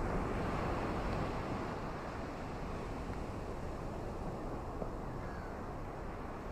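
Steady rush of ocean surf and wind, a little louder at the start, with a few faint, short bird chirps above it.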